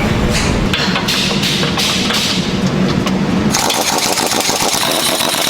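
Metalworking shop machinery noise: a low hum with short bursts of hiss, then about three and a half seconds in an abrupt change to a dense, rapid crackling rattle.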